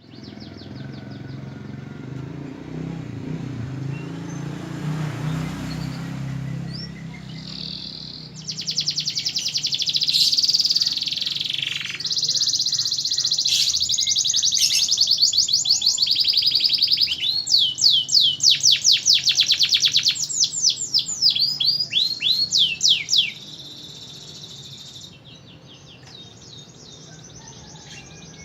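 Domestic canary singing: a long run of fast rolled trills and rapidly repeated high notes, loud for about fifteen seconds, that stops abruptly and leaves only faint chirping. Before the song starts there is a low background rumble.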